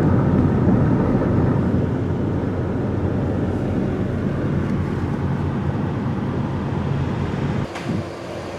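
Car on the move: steady engine and road noise that stops abruptly near the end.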